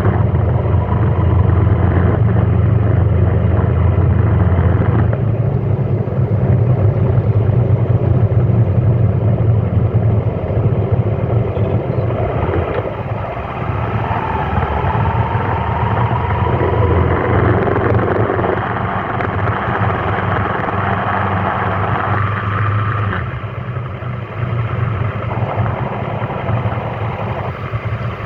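Road traffic: vehicle engines running in slow traffic, a steady low hum with a faint whine that rises slowly over several seconds midway.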